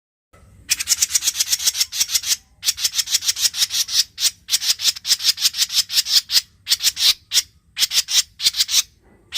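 Recorded lure call of a cucak jenggot mini (brewes mini): a fast, scratchy chatter of about five to six notes a second in runs broken by short pauses. It starts after a brief silence.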